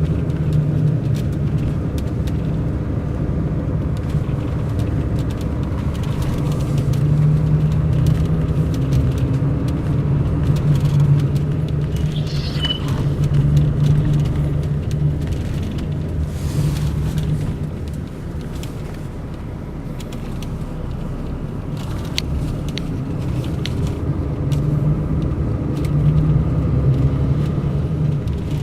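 Mercedes-Benz O500 RSD BlueTec5 coach's diesel engine running under way. The hum rises and falls with changes in speed and eases off for a couple of seconds about two-thirds of the way through.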